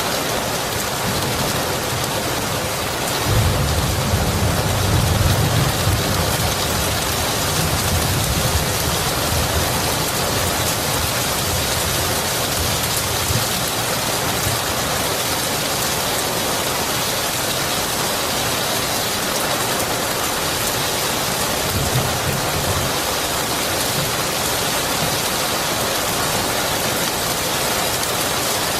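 Steady rain with a low roll of thunder that starts abruptly about three seconds in, is loudest for the next few seconds and slowly fades away, then a shorter, weaker rumble later on.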